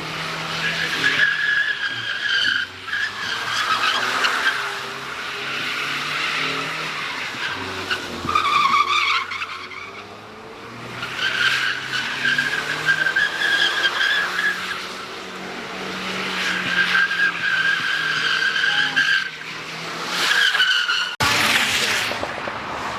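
Car drifting: tyres squealing in several long stretches, with an engine revving up and easing off underneath.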